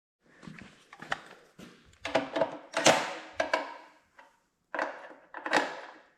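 Hand tools and sockets clinking and knocking against metal at irregular intervals, as a 7/16 socket is picked out and fitted to a fastener.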